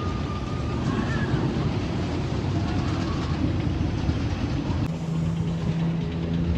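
Storm Chaser roller coaster train rumbling along its steel track, with a steady low hum joining about five seconds in.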